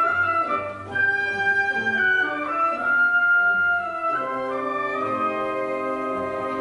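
Student orchestra playing a zarzuela prelude live: long held melody notes over the accompaniment, moving into a fuller sustained chord about four seconds in.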